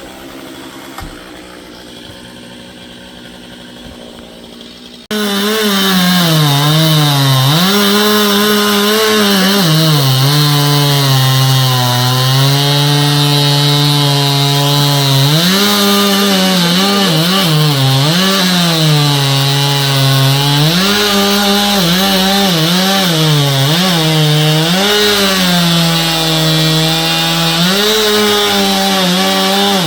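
Stihl two-stroke chainsaw cutting wood. It comes in suddenly and loudly about five seconds in, after a quieter stretch. The engine pitch repeatedly drops as the saw bogs under load in the cut and climbs back up as it revs.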